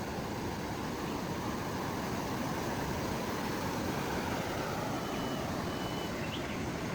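Steady rushing of flowing river water, an even unbroken noise, with a few faint short high chirps near the end.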